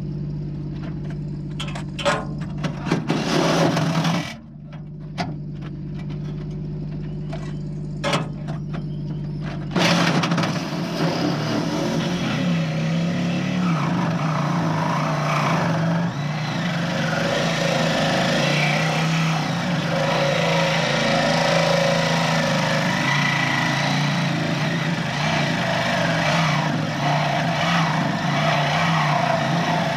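Angle grinder with a cut-off disc running, touching the steel briefly a couple of times early on, then, about a third of the way in, biting in and cutting steadily through a thick steel chassis rail with a loud, continuous grinding noise.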